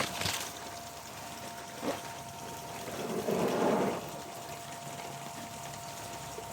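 Garden sprinklers spraying water. The spray swells louder for about a second around three seconds in, over a steady high hum.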